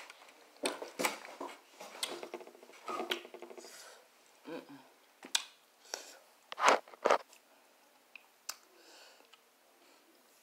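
Close-miked chewing of fried barbecue ribs: irregular crunchy bites and wet mouth smacks, with two sharp smacks standing out a little past halfway.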